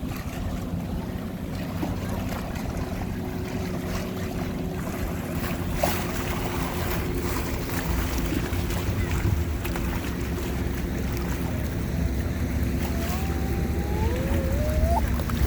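Wind buffeting the microphone at a lakeshore, with waves washing in and a steady low hum underneath. Two short rising squeals come near the end.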